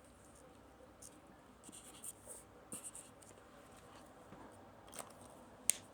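Felt-tip marker scratching on paper in short separate strokes, faint, with one sharp click near the end.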